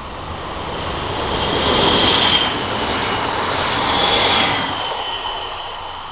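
A train passing at speed on an electrified mainline. The rushing of the wheels grows, peaks twice about two seconds apart, and fades away, with a high whine that drops slightly in pitch as the train goes by.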